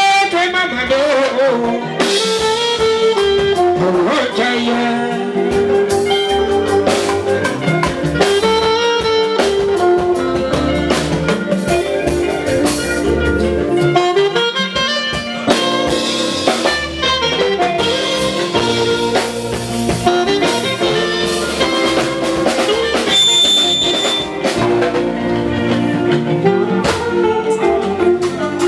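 Live fuji band music: talking drums and percussion with keyboard and other instruments playing steadily, with some singing.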